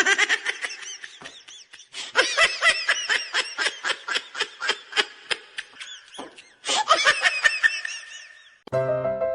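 Laughter: a rapid run of short, high-pitched laughs, several a second, pausing briefly about six seconds in and resuming until near the end.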